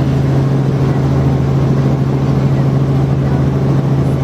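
Helicopter in flight: a steady, loud, unchanging drone with a strong low hum from the rotor and engine.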